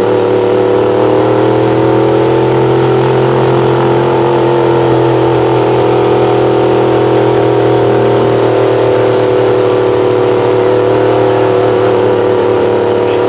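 Truck engine running hard at high revs under sustained load. The pitch climbs a little over the first few seconds, then holds steady.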